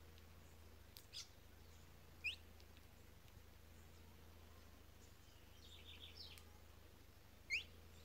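Small birds chirping sparsely: a few short, quick rising chirps, the two loudest about two seconds in and near the end, with a brief cluster of softer short notes around six seconds.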